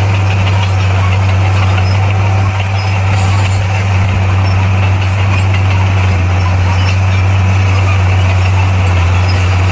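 A bulldozer's diesel engine running steadily at a constant pitch, a deep hum with mechanical clatter over it.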